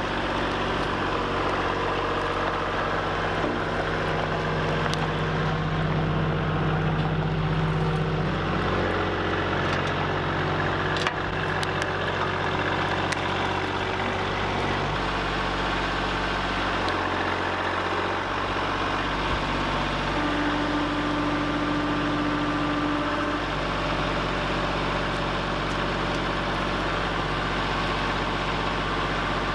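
Tractor engine running steadily at idle, its pitch shifting a few times as it is worked, with a single sharp knock about eleven seconds in.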